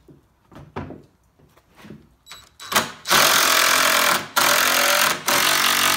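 Power driver running a screw into a pallet board, loud, in three pushes that stop briefly twice during the second half, after a few light knocks of the wood being handled.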